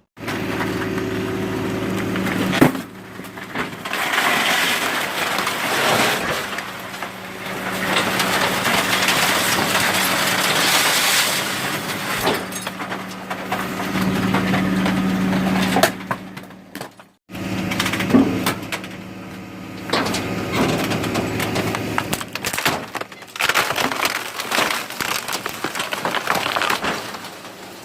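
Garbage truck compactor crushing bin rubbish: cracking and breaking noises over the steady hum of the truck's engine-driven hydraulics. The sound drops out briefly about 17 seconds in.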